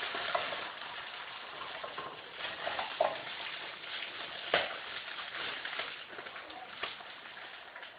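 Chicken breast strips sizzling in a frying pan greased with cooking spray: a steady hiss, with a few sharp clicks, the loudest about halfway through.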